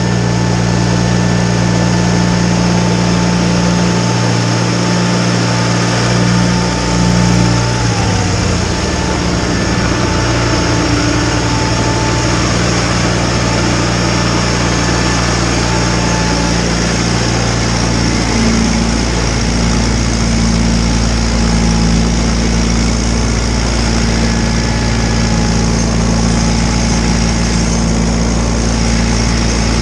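John Deere 318 garden tractor's engine running steadily while working a Model 49 snowblower. Its pitch drops about eight seconds in and shifts up again after about eighteen seconds.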